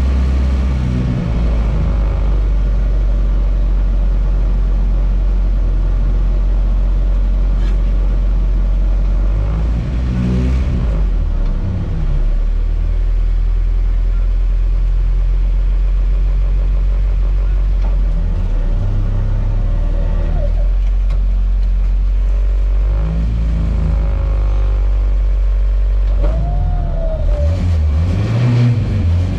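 Lada Niva's engine running hard off-road, with a heavy low rumble and revs rising and falling several times.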